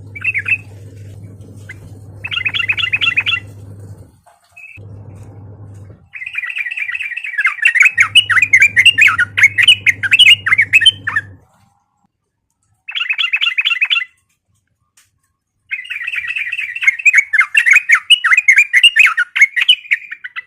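Yellow-vented bulbul singing in repeated bursts of rapid, chattering warbled phrases, the longest running about five seconds, with short gaps between them. A low steady hum sits under the song through the first half and stops about halfway through.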